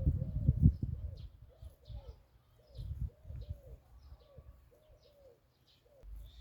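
Birds calling: a run of short, low, arched cooing notes, with fainter high chirps over them. A low rumble of wind or handling noise is loudest in the first second and returns about three seconds in.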